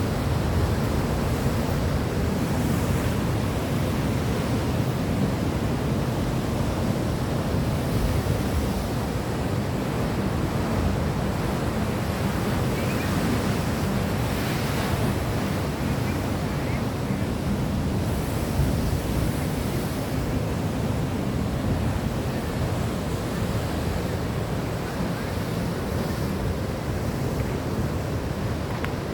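Steady rushing of surf with wind, swelling gently now and then.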